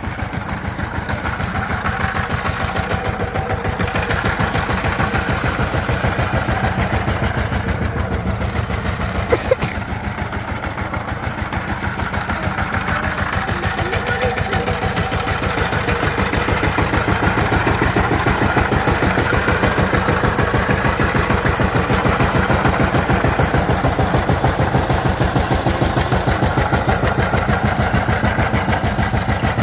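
Diesel engine running steadily just after starting, with a fast, even firing beat; it grows a little louder past the middle, and there is one sharp click about a third of the way in.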